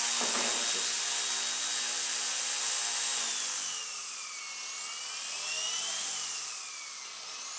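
Blade mCP X BL2 RC helicopter's brushless main motor and spinning rotor blades, a steady high-pitched whine. About three seconds in it drops in level and pitch, then rises and falls twice as the rotor speed changes with throttle and pitch.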